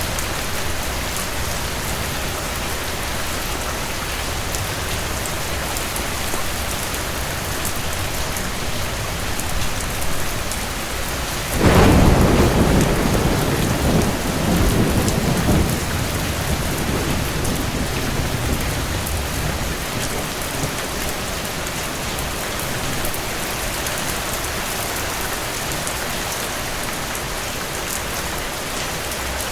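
Steady heavy rain falling on surfaces, with a sudden clap of thunder about twelve seconds in that rumbles and fades away over the next several seconds.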